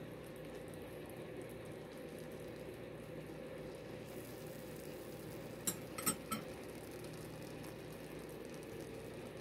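Egg and bitter melon omelette frying gently in a nonstick pan, a steady low sizzle, with a few sharp clicks about six seconds in.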